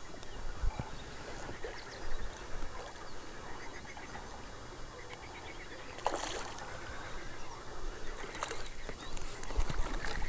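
Quiet outdoor ambience in a small boat on a lake: scattered faint knocks and clicks, a short hissing burst about six seconds in and another a couple of seconds later, with a low rumble rising near the end.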